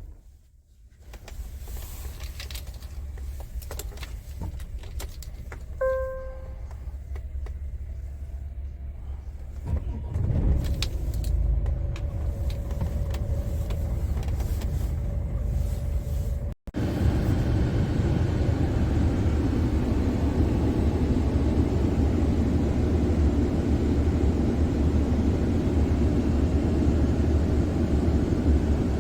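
Scania R450 truck's 13-litre inline-six diesel: a single dashboard beep, then the engine starts about ten seconds in and settles to a steady idle. After an abrupt cut it runs on steadily, louder.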